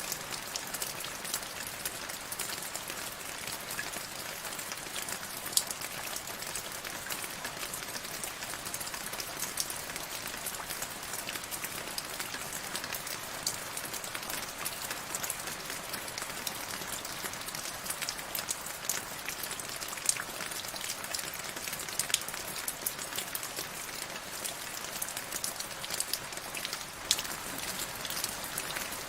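Steady rain falling, a continuous hiss with many sharp individual drops ticking on a hard surface, a few louder than the rest.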